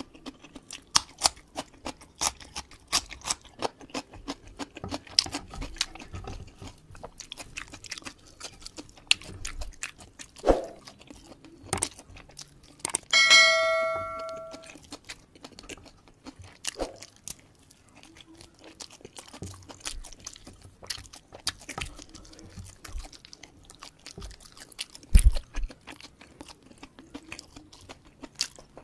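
Close-up chewing and mouth sounds from eating fried chicken by hand: many soft clicks and crunches. About thirteen seconds in, a bell-like chime rings out and fades over about a second and a half, the sound effect of an on-screen subscribe-button animation. Near the end comes a single low thump.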